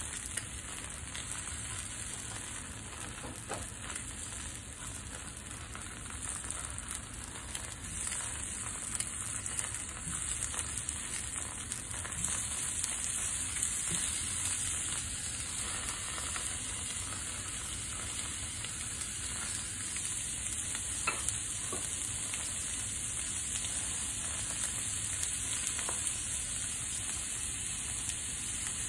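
Fried eggs and slices of steak frying in a nonstick pan: a steady sizzle that gets a little louder about a third of the way in, with a few faint clicks.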